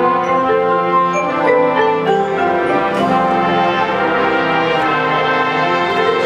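High school marching band playing, with brass holding sustained chords and mallet percussion sounding short high notes over them.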